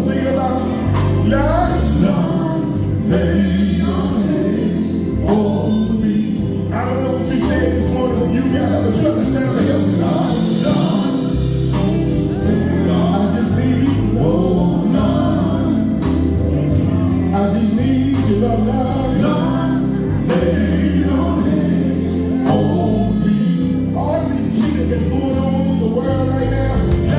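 Live gospel music: a male gospel group singing with full instrumental backing, a steady bass line and drum beat under the voices.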